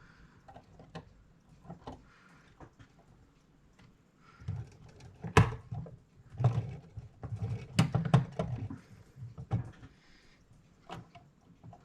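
Scattered clicks and light knocks of small metal clock parts and tools being handled while a mechanical clock movement is reassembled. The sharpest click comes about five seconds in, followed by a busy run of taps.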